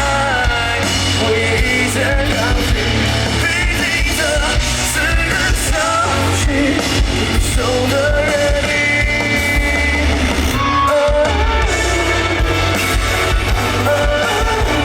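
Rock band playing, with a lead voice singing a melody over guitar and a steady, heavy bass.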